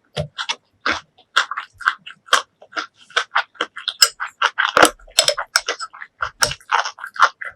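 Close-miked eating: chewing with wet mouth smacks and clicks, a fast, irregular run of short sharp sounds, several a second.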